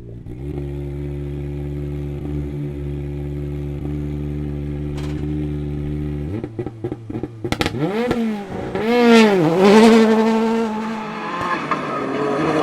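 Proton Iriz R5 rally car's turbocharged four-cylinder engine held at steady revs for about six seconds, then the car launches and accelerates hard, the revs climbing and dropping through several gear changes.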